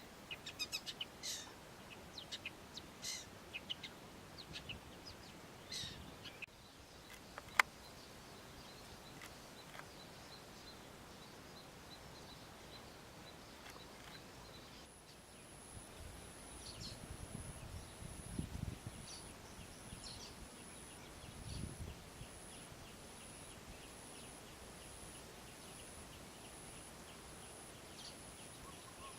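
Outdoor ambience with birds chirping in short calls, most of them in the first few seconds and a few more later. A steady high-pitched tone joins about halfway through, and a few low rumbles come a little after it.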